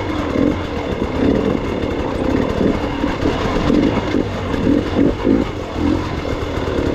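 Gas Gas EX 300 two-stroke dirt bike engine running at low revs, the pitch rising and falling in short, uneven throttle swells as the bike picks its way over rough terrain.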